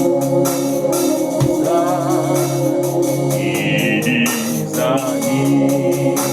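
Gospel music: held organ chords over a steady beat, with singing that comes and goes, a wavering vocal line about two seconds in and a high held note near the middle.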